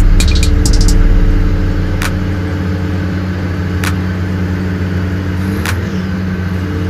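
Cabin sound of a diesel multiple-unit commuter train rolling slowly into a station: a steady engine drone with a low rumble that eases after about two seconds, and single sharp clicks about every two seconds.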